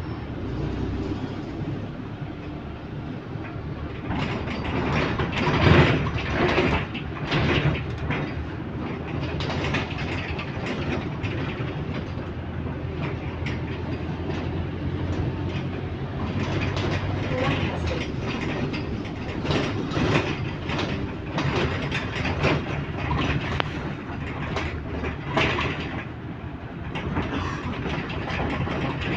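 Bus interior on the move: a steady engine and road drone, with clattering rattles from the body and fittings that come thickest about five to eight seconds in and again from about sixteen to twenty-six seconds.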